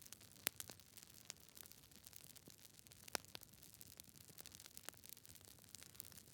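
Campfire crackling: irregular sharp snaps and pops of burning wood over a soft hiss, the loudest about half a second in and just after three seconds.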